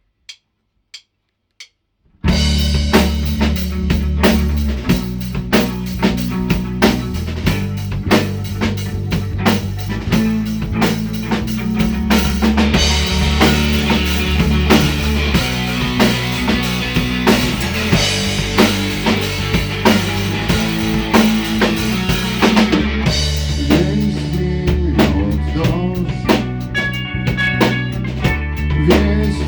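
A rock trio's instrumental intro: a count-in of evenly spaced clicks, then drum kit, bass guitar and guitar come in together about two seconds in and play on with a steady beat, with no singing.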